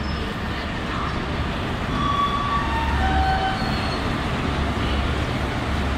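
WAP-4 electric locomotive and ICF coaches rolling past, a steady rumble of wheels on the rails with a few short squeals.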